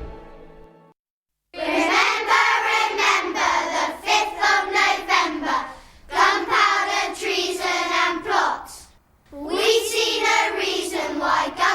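A guitar chord dies away at the start, then a group of children's voices sings a song in phrases, with two short pauses between lines.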